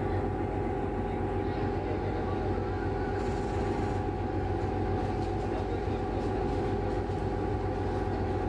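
Steady engine drone with constant hum tones, unchanging in level, as heard while riding in a running vehicle.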